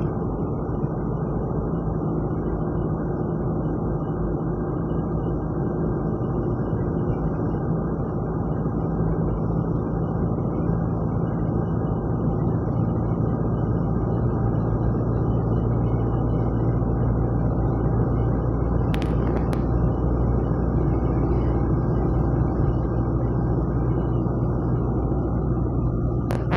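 Car driving on a highway: a steady drone of road and engine noise, with a couple of short clicks later on.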